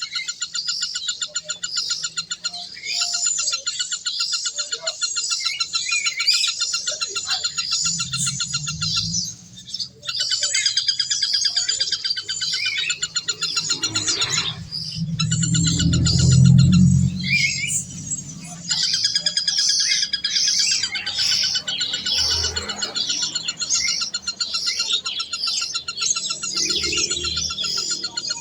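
Birds chirping in a dense, continuous chorus of rapid high chirps, with a low rumble swelling about halfway through.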